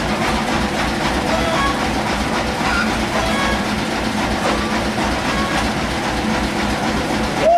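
Sawmill machinery running with a steady, fast rhythmic clatter over a constant hum, and a short falling squeal at the very end.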